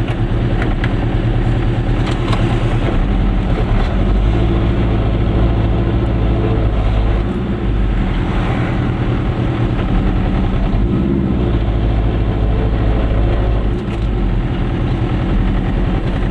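Goggomobil's small two-stroke twin engine running with a steady low drone, heard from inside the cabin; the sound eases briefly twice, about seven seconds in and again near fourteen seconds.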